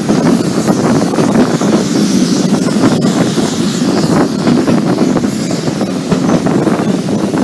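Wind buffeting the microphone held out of a moving steam-hauled train's carriage window, over the steady rumble of the coach running on the track with scattered short knocks.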